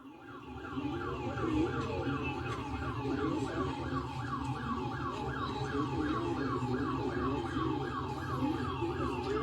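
A siren sounding in quick falling sweeps, about three a second, with a lower wavering tone beneath it.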